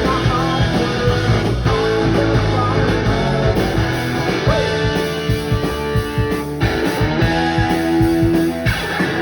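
Rock band playing live, guitars to the fore.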